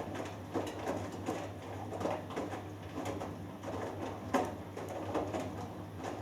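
Hoover Dynamic Next washing machine tumbling a cotton load in the wash phase: a steady low motor hum with irregular soft knocks and water swishes as the laundry drops in the drum.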